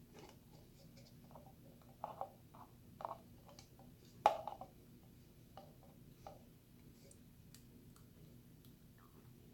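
Water slime being handled: scattered soft wet clicks and squishes, a few at a time, the loudest about four seconds in.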